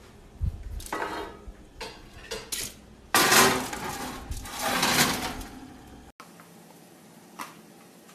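Kitchen clatter of dishes, pans and utensils: several short clanks, then a louder stretch of clattering and scraping lasting about two seconds, starting about three seconds in.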